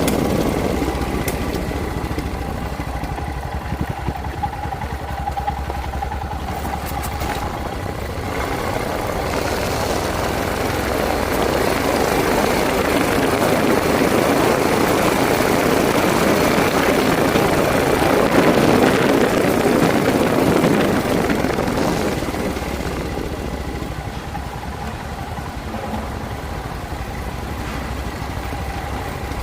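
Motorcycle engine running steadily, with a rushing noise that swells from about eight seconds in and dies away after about twenty seconds.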